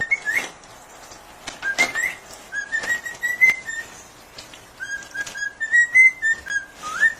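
Whistling in a run of short notes at much the same pitch, several of them sliding upward, with faint clicks in between.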